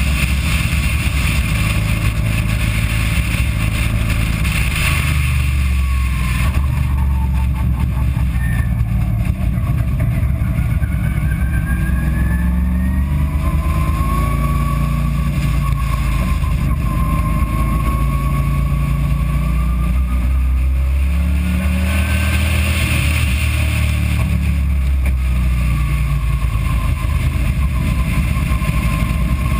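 Race car's engine running under load at around 3,000–3,500 rpm through a track lap, its note rising and falling with throttle and gear changes, under a loud rushing noise.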